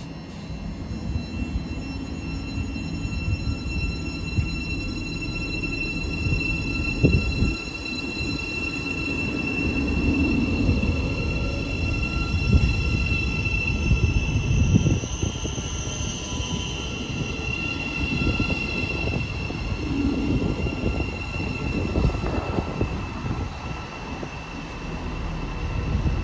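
Train moving through the station: a low rumble of wheels on rail with steady high-pitched wheel squeal over it.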